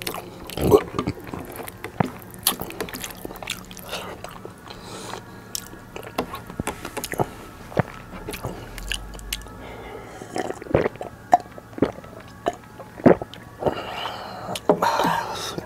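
Close-miked chewing of a mouthful of biryani rice and curry, with irregular short wet clicks and lip smacks, while fingers mix the soft rice on the plate.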